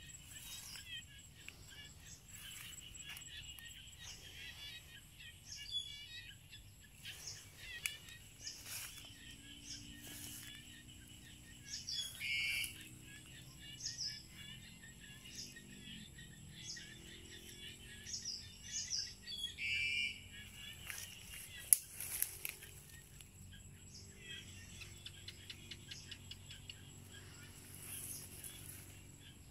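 Birds chirping and calling in short phrases and trills at intervals, with scattered light clicks and one sharp knock about twenty-two seconds in.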